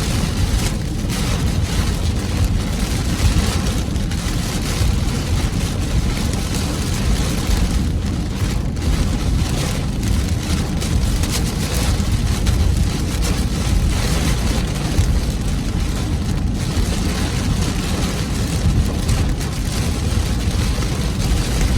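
Torrential rain pelting a moving car, a dense steady drumming over the low rumble of the car driving on a wet road.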